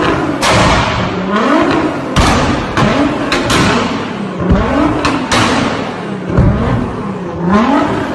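A car engine revved again and again, each rev climbing and dropping back, with sharp bangs cracking out between the revs.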